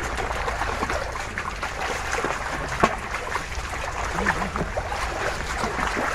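Shallow water sloshing and trickling, with many small splashes scattered through it.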